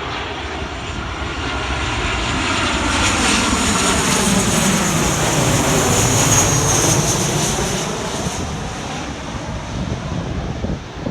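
Aircraft passing close overhead: its engine noise swells to a peak about halfway through and then eases off, the pitch sliding down as it goes by.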